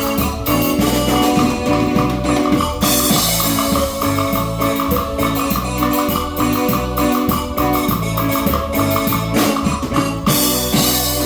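Cumbia band playing an instrumental passage: keyboard, bass and percussion in a steady, danceable rhythm.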